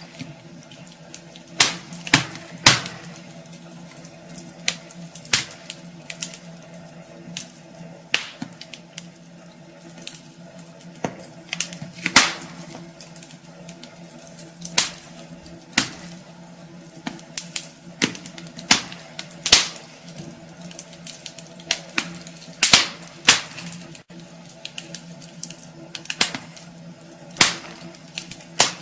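Wood fire crackling in a fireplace: irregular sharp pops and snaps, sometimes several close together, over a steady low hum.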